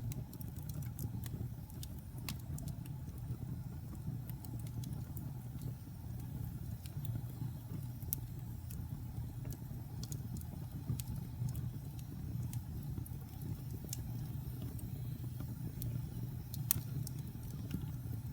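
Wood fire burning in a fireplace: a steady low rumble of the flames with irregular crackles and pops, one louder pop near the end.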